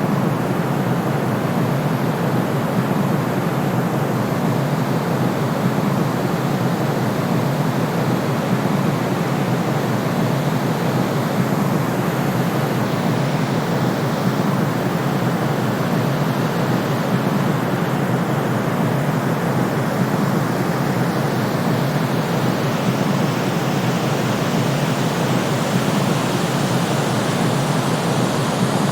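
Steady white noise for sleep: an even, unbroken hiss, heavier in the low range, that does not change at all.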